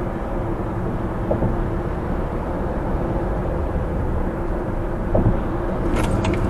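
A car's steady road and engine rumble while driving, with a faint steady hum, a few light clicks and a short double beep near the end.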